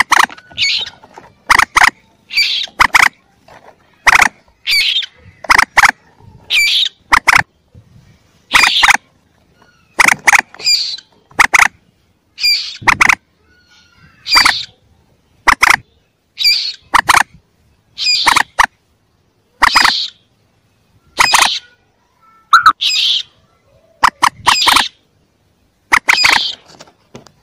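Young moorhens (mandar) giving short, sharp calls in quick pairs and triplets, repeating about every one and a half to two seconds: a lure recording used to call the birds in.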